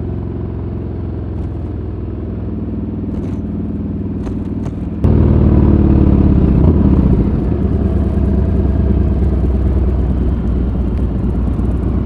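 Harley-Davidson V-twin motorcycle engine running steadily while riding, heard from on the bike. About five seconds in it jumps louder and stays that way.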